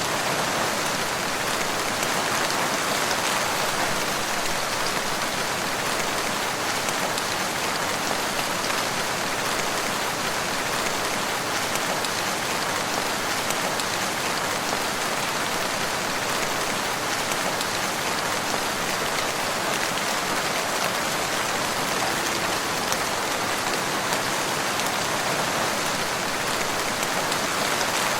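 Steady rain falling in a wood, an even patter of drops on leaves and ground with no change in intensity.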